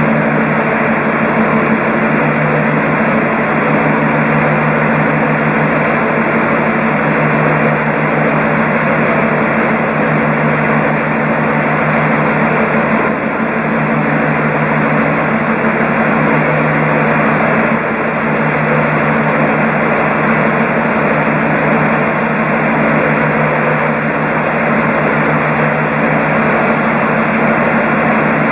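Mercedes-Benz M119 5.0-litre V8 idling steadily, freshly overhauled and on its first run after the rebuild.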